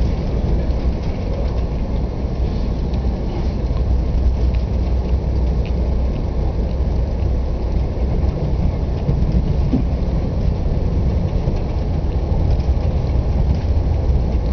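Steady low rumble of a Via Rail passenger train in motion, heard from inside the coach.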